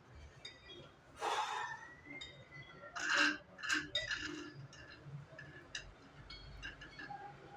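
A man's heavy, forceful breathing while straining through a set of dumbbell reps: one hard exhale about a second in, then a quick run of three or four sharp breaths around the middle, with faint clicks between.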